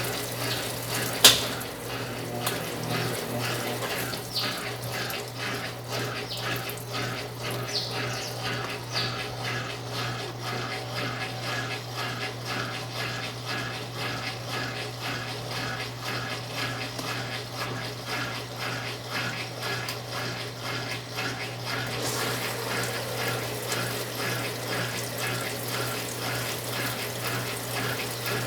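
Water pouring steadily into a Brastemp 9 kg washing machine's tub under a constant electrical hum, with one sharp click about a second in.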